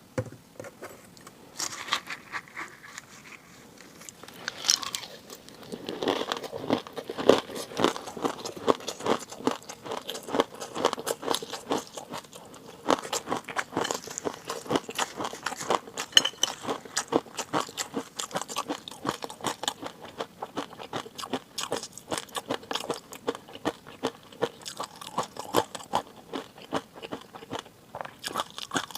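Close-up eating sounds: a person chewing and crunching food, with a dense run of rapid small clicks and wet crackles that thickens a few seconds in.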